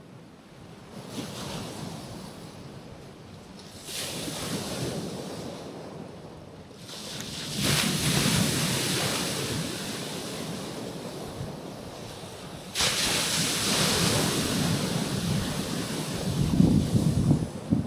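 Small waves washing onto a rocky shore: four rushing surges in turn, each swelling suddenly and then slowly fading. Near the end there is a louder low rumble.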